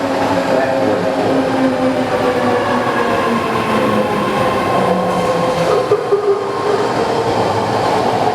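BART train running on the rails: a steady rumble with several whining tones that drift slowly in pitch.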